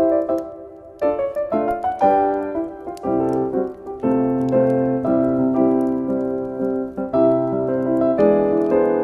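Soft piano music: chords and single melody notes struck about once a second, each ringing and fading before the next.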